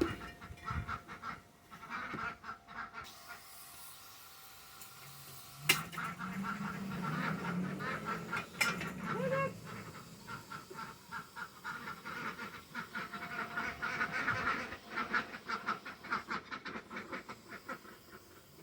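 A group of ducks quacking and chattering in quick, rapid calls, with a single sharp knock about six seconds in.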